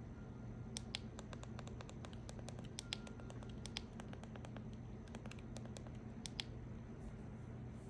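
Typing: irregular light key clicks and taps over a steady low hum.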